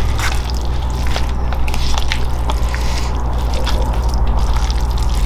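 Wet eating sounds: soft clicks and squishes of chewing over a steady low hum.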